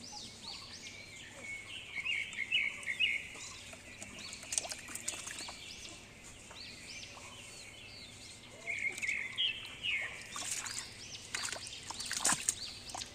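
Small birds chirping, many short overlapping calls coming in clusters, busiest about two seconds in and again from about nine seconds on.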